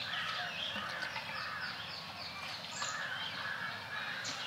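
Many birds chirping and calling over a steady outdoor background hum, with quick high chirps repeating several times a second and longer, lower calls in between.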